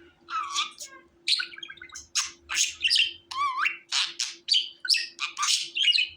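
Budgerigar chirping: a quick, busy run of short, sharp chirps, with a wavering warble about three and a half seconds in.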